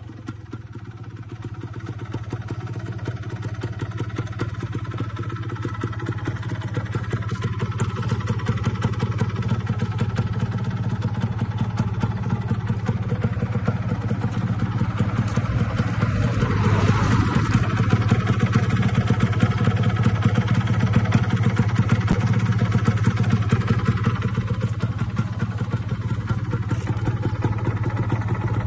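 Yamaha DT 125 two-stroke single-cylinder engine running on its stock exhaust with a steady rapid beat. It grows louder through the first half and is fullest about halfway through.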